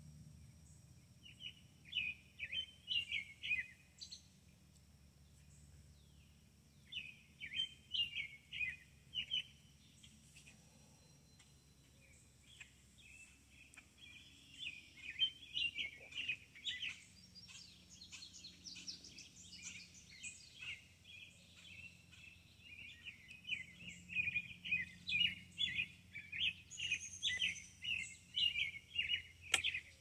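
Songbirds singing in bouts of quick, high chirps, busiest near the end, over a low steady background hum.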